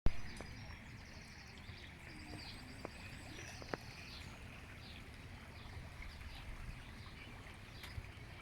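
Wild birds singing and chirping, over a low rumble of wind on the microphone, with a knock at the very start and a couple of light clicks.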